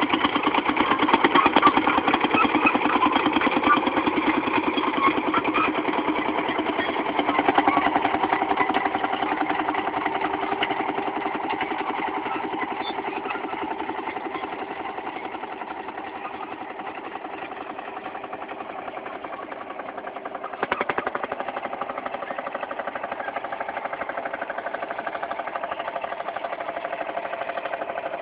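Fowler VF crawler tractor's single-cylinder two-stroke diesel engine running with a rapid, even beat while it pulls a six-furrow plough. The engine gradually fades, then steps up a little in level about two-thirds of the way through.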